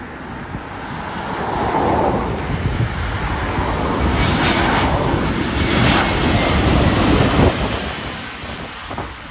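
Jet engines of an Airbus A320 on its landing approach, growing louder to a peak about seven seconds in and then fading, mixed with gusty wind buffeting the microphone.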